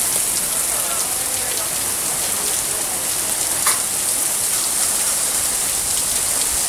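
Thunderstorm rain falling steadily, a dense even hiss, with one sharp tick about three and a half seconds in.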